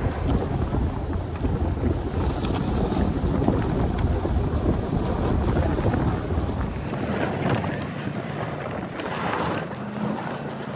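Plow truck pushing snow, a heavy rumble with wind noise on the microphone. About seven seconds in the deep rumble falls away, leaving a lighter, hissier noise.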